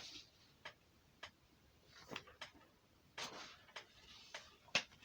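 Faint, irregularly spaced clicks and small handling noises, about eight in five seconds, with the sharpest click near the end.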